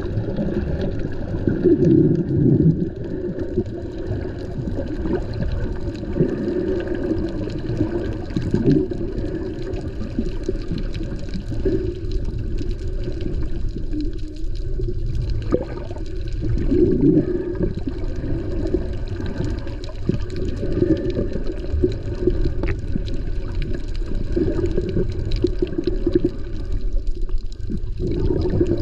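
Water sloshing and gurgling around an action camera while snorkeling: a muffled low rumble that swells in uneven surges every few seconds, with faint scattered ticks.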